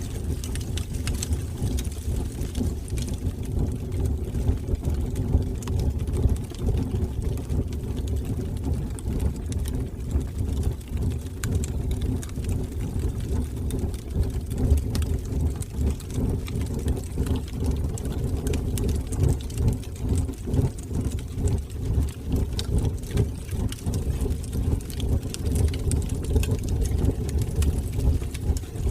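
Wood fire burning in a fireplace: a steady, flickering low roar of the flames, with faint scattered crackles.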